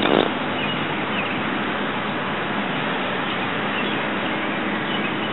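Steady rushing outdoor background noise, with a few faint bird chirps.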